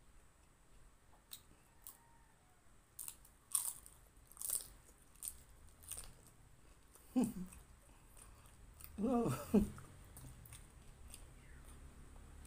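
Close-up mouth sounds of a person chewing crispy fried lumpia (spring rolls): a string of crunches and wet smacking clicks over the first six seconds, then two short low voice sounds, falling in pitch, about seven and nine seconds in.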